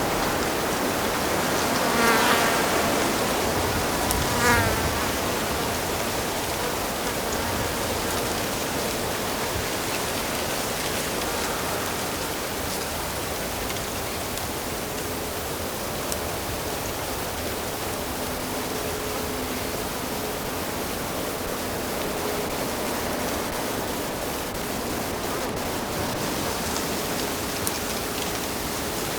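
A stream flowing steadily. An insect buzzes close past twice in the first few seconds, its pitch bending as it passes.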